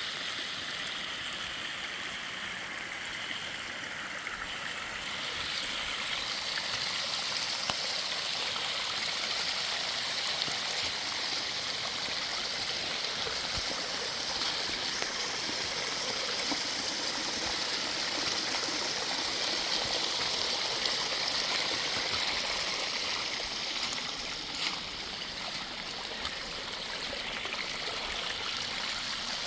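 Water running and rushing steadily, growing a little louder about six seconds in, with one brief tick near the end.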